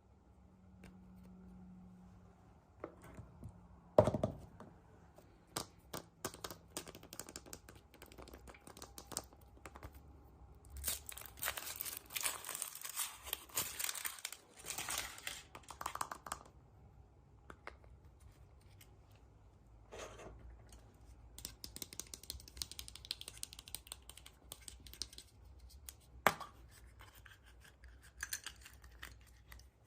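Surprise egg packaging being torn and crinkled by hand, with scattered small clicks and taps. There is a sharp knock about four seconds in. The densest crinkling and tearing comes in a stretch of about four seconds in the middle, and a lighter stretch comes later.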